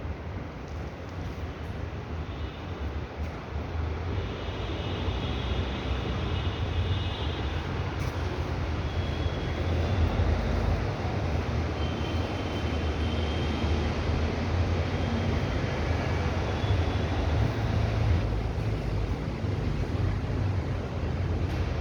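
Steady rumble of a moving vehicle, heaviest in the low end, with faint high whining tones coming and going. It grows a little louder over the first several seconds, then holds steady.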